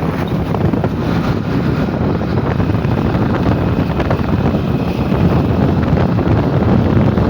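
Steady, loud rushing of heavy rain and wind, with wind buffeting the microphone.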